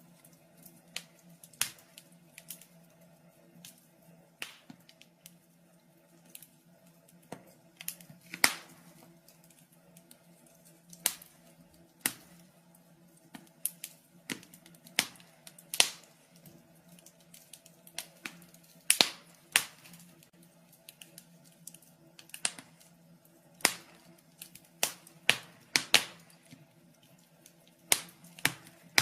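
Wood fire burning in a fireplace, crackling with irregular sharp pops and snaps, a few every couple of seconds, over a faint steady low hum.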